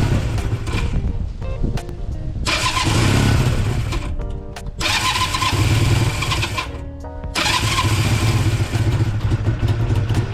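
Honda CB250 motorcycle being jump-started: the electric starter cranks the engine in repeated attempts of about two to three seconds each, with short pauses between them, as the engine tries to catch. Background music plays under it.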